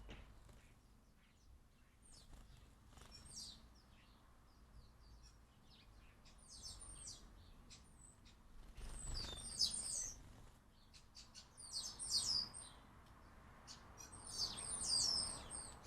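House sparrows chirping in short bursts of quick, high chirps, busiest about halfway through and again near the end.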